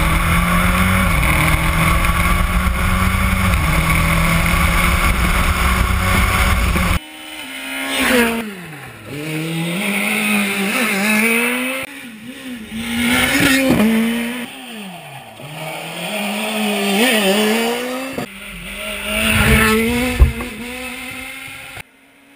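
A rally car's engine under load. For the first seven seconds it runs at high, nearly steady revs; then the sound cuts abruptly to the engine revving up and dropping back again and again as it shifts and lifts. A single sharp crack comes about twenty seconds in.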